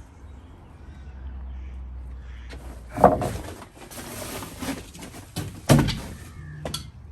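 Two loud knocks inside a room, one about three seconds in and a sharper one near six seconds, with clatter between them over a low steady hum.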